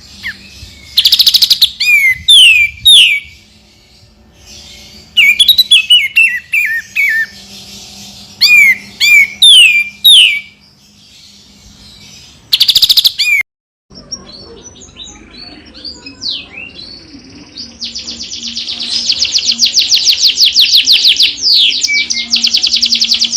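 Recorded songbird song: sharp downward-slurred whistles in quick phrases, then, after a short break about 14 s in, a fast run of many rapidly repeated notes, the kind of rapid-fire 'tembakan' phrase played to tutor white-rumped shamas.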